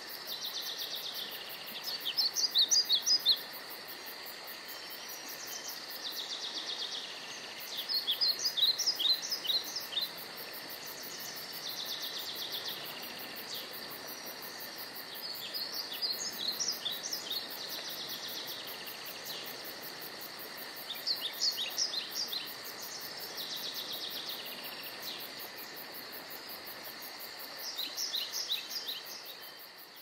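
Songbirds singing: short phrases of quick high notes, repeated every few seconds, over a steady faint hiss.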